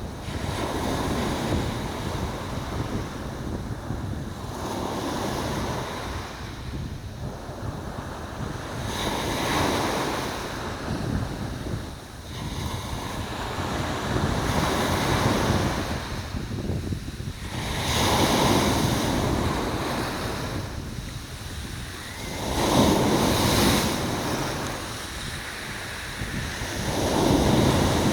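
Sea waves surging in and washing back in repeated swells, a louder wash every three to five seconds over a constant low rumble of surf.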